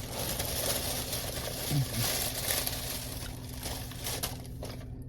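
Crinkling and rustling of takeout food packaging being handled, a steady rustle that dies away shortly before the end, with a brief low hum from the eater about two seconds in.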